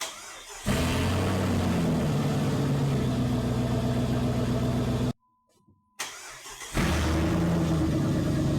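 Jeep Grand Cherokee WJ engine starting and running with its exhaust pipe separated at a clamp behind the catalytic converter, so it runs unmuffled: a loud, steady exhaust note. The sound drops out about five seconds in, then another start, and the engine runs steadily again.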